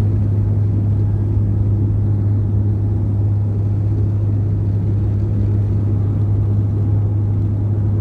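Steady low drone of a passenger aircraft's engines heard inside the cabin, with one constant deep hum under a rumble that holds an even level.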